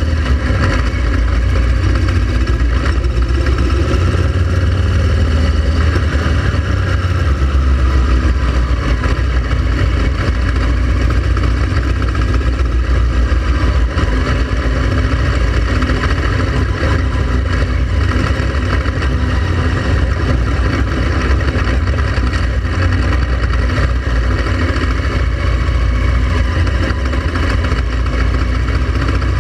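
Honda Transalp XL700V motorcycle's V-twin engine running steadily on the road, under a heavy low rumble that does not let up.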